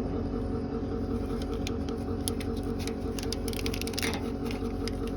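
School bus engine idling steadily, with scattered light clicks and rustles from wiring being handled at the front bumper.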